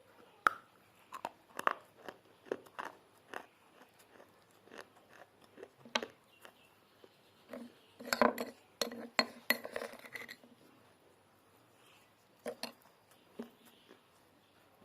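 Pieces of baked clay pot crunching and cracking in a string of sharp, irregular crunches, thickest in a dense run about eight seconds in, then thinning to a few scattered cracks near the end.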